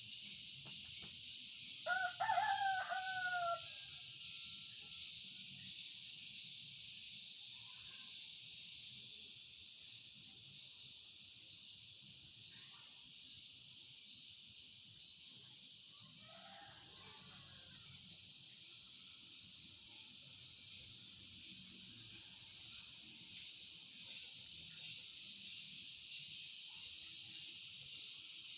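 A rooster crows once, loudly, about two seconds in, the call falling in pitch at its end, with fainter calls later. Underneath runs a steady high hiss and a low hum.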